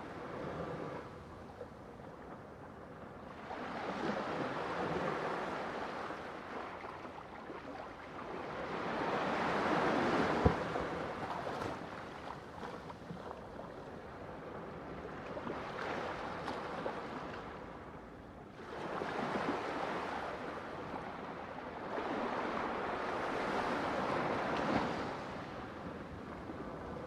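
Ocean waves breaking on the shore, the surf rising and falling in slow swells about every four to six seconds, with a single sharp click near the middle.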